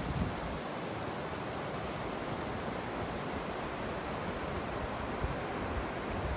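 Steady rushing of fast-flowing water, an even hiss with no pauses, with some low buffeting on the microphone.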